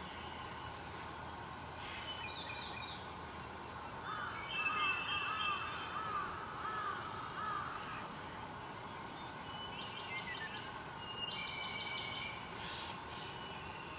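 Wild birds calling over a steady background hiss. From about four to eight seconds in, one bird gives a quick series of rising-and-falling whistled notes, about two or three a second. Shorter, higher chirps come before and after it.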